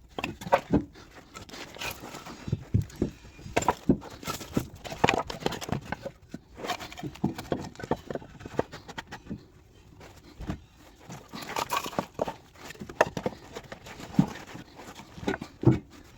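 Irregular knocks, clinks and scrapes of hand tools and metal parts being worked on, at uneven intervals with no steady running sound.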